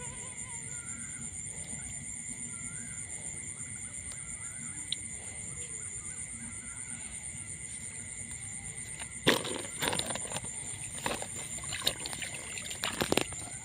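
Steady high-pitched drone of an insect chorus. From about nine seconds in comes a quick run of knocks and splashy handling noises.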